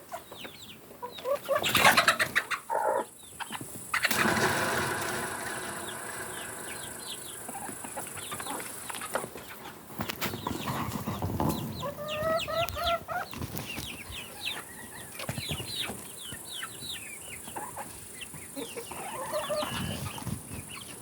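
Chickens clucking and calling, with many short high-pitched calls throughout and a longer drawn-out call about four seconds in. A brief loud burst of noise comes about two seconds in.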